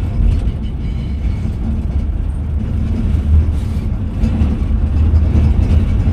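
Scania Metrolink multi-axle coach on the move: a steady low rumble of its diesel engine and road noise.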